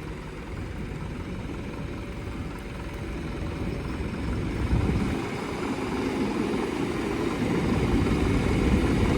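Tractor engine running with a low, steady rumble that grows gradually louder.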